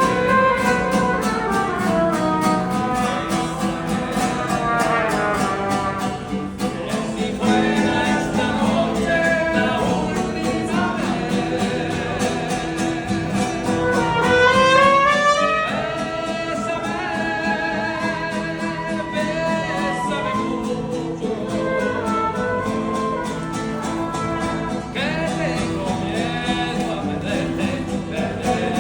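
Band music with a singer over guitar and brass, in a country style, with a steady beat and a sung melody that swoops up and down.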